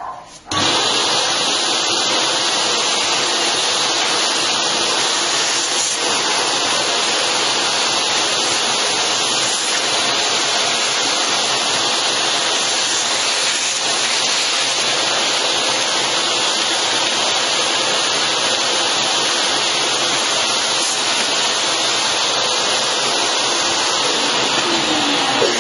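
A steady, loud rush of air from a motor-driven cleaning appliance, switched on about half a second in and cut off near the end.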